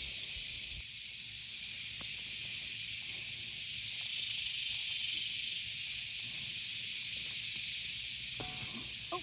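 A steady, dense chorus of cicadas (locally called locusts): one continuous high-pitched hiss that does not let up.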